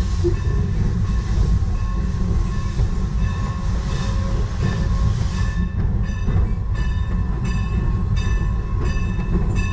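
Steam-hauled passenger train rolling slowly, heard from the caboose: a steady low rumble from the moving cars, with a run of light clicks at about two a second starting around six seconds in.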